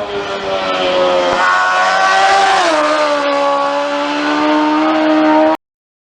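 A single superbike racing motorcycle engine at high revs: its note falls, jumps up about a second and a half in, drops with a gear change, then climbs steadily as the bike accelerates. The sound cuts off abruptly near the end.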